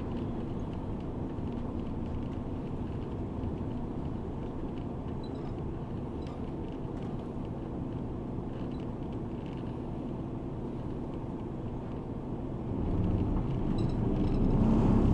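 Engine and road noise inside a moving route bus, a steady low rumble. About 13 seconds in it grows noticeably louder and deeper.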